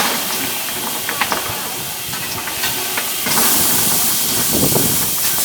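Steam locomotive Tornado, a Peppercorn A1 Pacific, hissing steam steadily, the hiss growing louder about three seconds in, with a few faint clicks.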